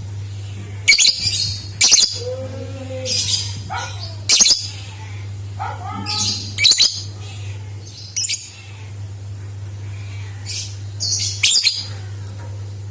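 Lovebirds calling: about a dozen short, shrill chirps and screeches at irregular intervals, some with quick pitch glides. A steady low hum runs underneath.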